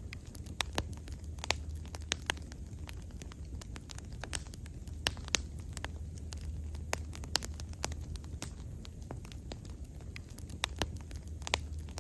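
Wood bonfire crackling, with irregular sharp pops and snaps, some louder than the rest, over a low steady rumble.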